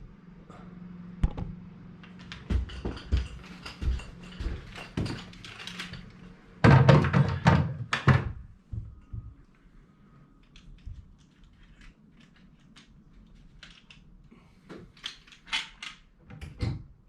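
Irregular knocks and thunks from handling a casement window unit during installation. They come thick through the first eight seconds, loudest about seven seconds in, then thin out to a few light taps near the end.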